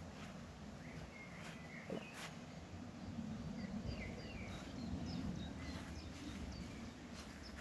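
Small birds chirping: short, scattered chirps over a steady low rumble, with a few sharp clicks.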